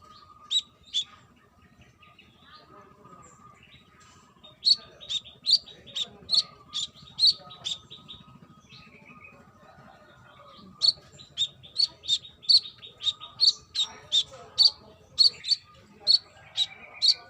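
Brown-throated sunbird singing: sharp, high chirps in quick runs of about two to three notes a second, with a sparse pause in the first few seconds and another around the middle.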